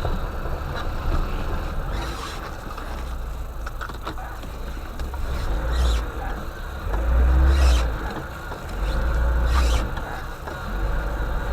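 Vehicle engine running under load with a deep rumble that swells twice in the second half, with a few brief scrapes.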